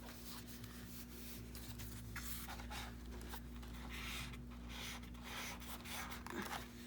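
Short scratchy rubbing strokes on paper, one after another, as glue is spread down the centre of the paper.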